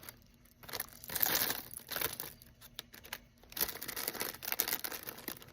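Crinkling and rustling of a bag or packaging being handled, in several bursts.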